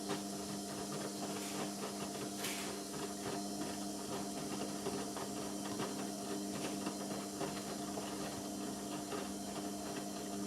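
Indesit MTWC71252WUK washing machine's motor turning the drum during the wash, a steady hum with scattered light clicks and knocks from the tumbling load; the motor cuts off suddenly at the very end.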